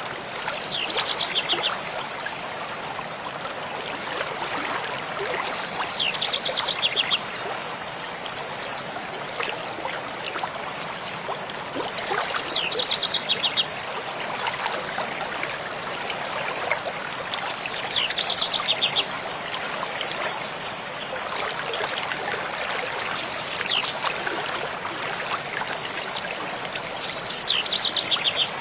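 Mountain stream flowing steadily over rocks, with a songbird singing the same short phrase six times, about every five seconds: a rapid high trill followed by a couple of sweeping notes.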